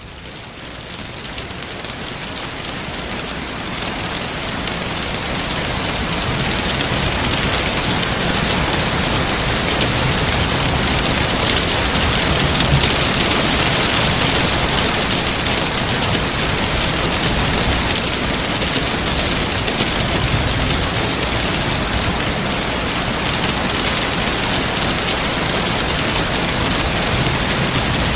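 Heavy rain falling steadily, a dense even hiss that fades in over the first several seconds and then holds.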